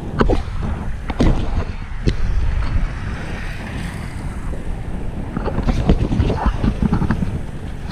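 Wind buffeting a camera microphone on a moving bicycle, a steady low rumble with a few sharp clicks.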